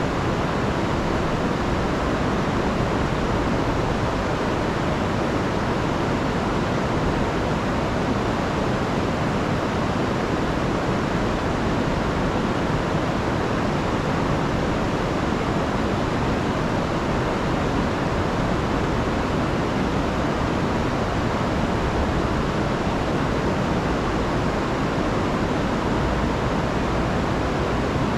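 Rain-swollen river rushing over waterfalls: a steady, unbroken rush of water.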